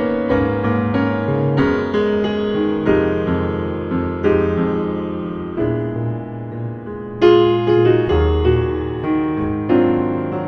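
Jazz piano solo on a slow ballad: chords in both hands under a melody line, with no voice.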